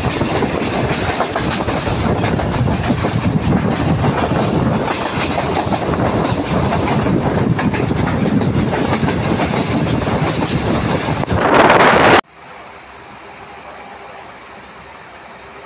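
Passenger train running at speed, heard from inside the carriage: a steady rumble of the wheels on the track. It swells louder about eleven seconds in, then cuts off abruptly to a much quieter steady noise.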